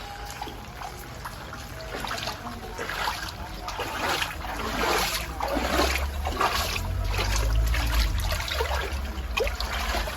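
Rainwater trickling and splashing, with a low rumble swelling through the middle.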